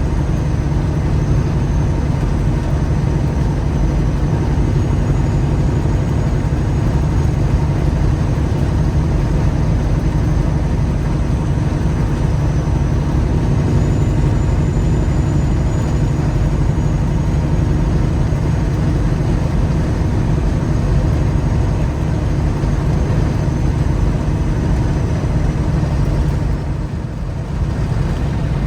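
Peterbilt 359 dump truck's diesel engine running steadily, a loud low drone with a faint high whine that drifts slightly in pitch. It eases off briefly near the end.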